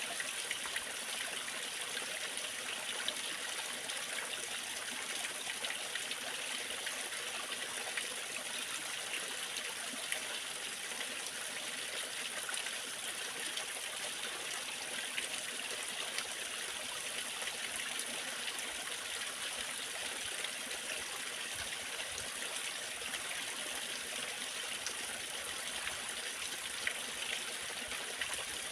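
Waterfall splashing steadily: an even rush of falling water with fine crackling splashes, heaviest in the upper range.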